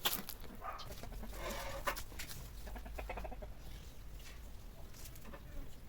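Hens clucking in short pitched calls, with a few sharp clicks.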